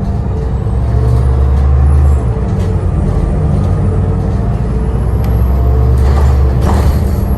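A heavy vehicle running with a steady low rumble, with a short hiss of air-brake release about six seconds in.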